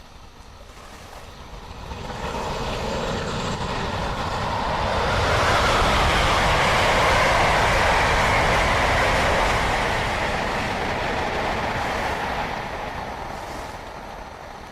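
Southbound Amtrak Northeast Regional passenger train passing at speed, the rush of wheels on rails building over a few seconds, loudest about halfway through, then fading as it goes by.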